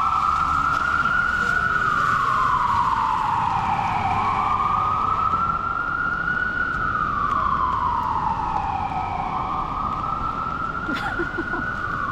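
Ambulance siren in slow wail: one tone rising and falling about every five seconds, growing a little fainter toward the end.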